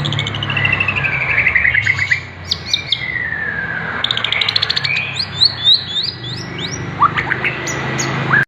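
Caged songbirds singing: a fast run of whistled notes falling in pitch, then a string of rising slurred whistles and quick chips, over a steady low hum. The sound cuts off abruptly at the end.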